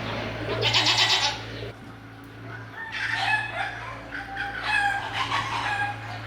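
Rooster crowing: a harsh call about a second in, then drawn-out pitched crows in the second half, over a steady low hum.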